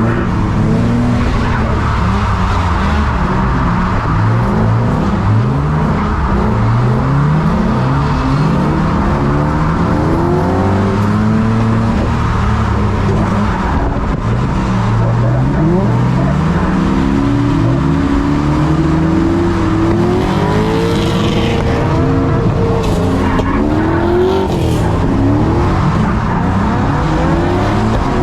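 Drift car engine revving up and down over and over through a run, its pitch rising and falling every second or two, with the tyres sliding on a wet track.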